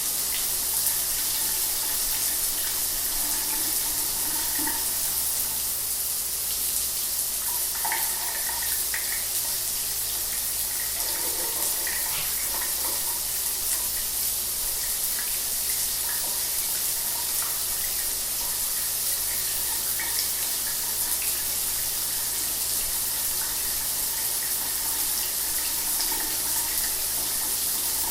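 Shower water running steadily, an even spray hiss with small splashes scattered through it.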